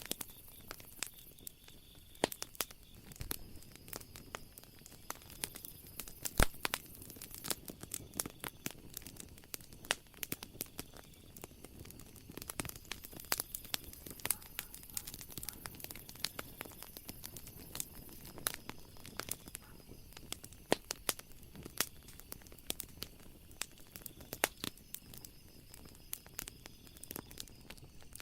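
Wood fire crackling, with many irregular pops and snaps over a low hiss and a few louder snaps. Faint high steady tones come and go in the background.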